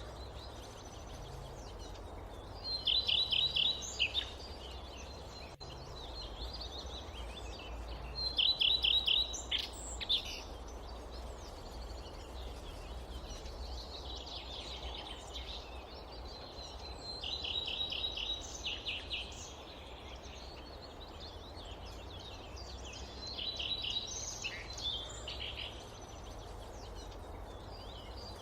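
A songbird repeatedly singing a short, fast trill of evenly spaced high notes, about four times a few seconds apart, with fainter chirps in between. Under it runs a steady low rumble and hiss of wind.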